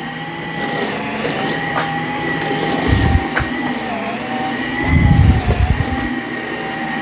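Dyson V15s Detect cordless stick vacuum running with its Submarine wet roller head as it is worked over a hard floor, a steady motor whine that wavers slightly in pitch. Low thuds come about three seconds in and again around five seconds in.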